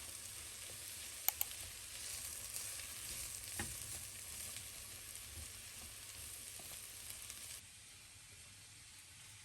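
Food sizzling in a frying pan, a steady hiss with a few light clicks. The sizzle cuts off suddenly about three quarters of the way through.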